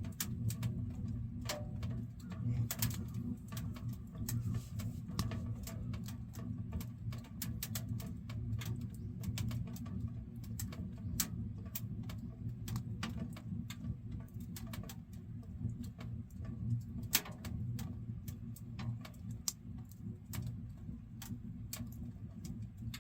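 Wood burning in a Solotour three-sided wood stove: irregular sharp crackles and pops over a steady low rumble from the fire.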